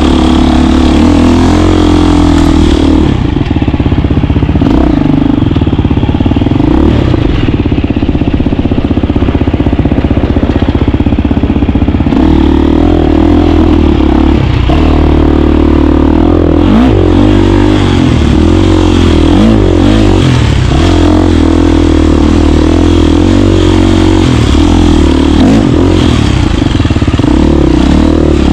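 KTM 350 dirt bike's single-cylinder four-stroke engine running while riding, its note rising and falling with the throttle and gear changes.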